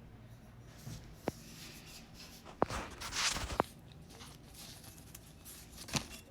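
A few scattered clicks and knocks over faint room tone, with a short rustle a little past the middle.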